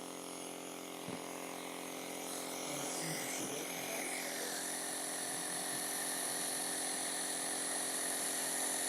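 Omron compressor nebuliser running: a steady electric motor hum with a hiss of air. The hiss grows louder about halfway through.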